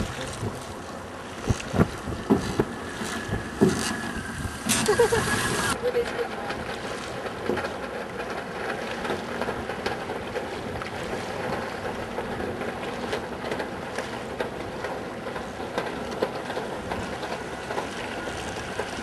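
Wind and water noise on open water around a boat, with several sharp knocks in the first four seconds and a brief loud hiss about five seconds in.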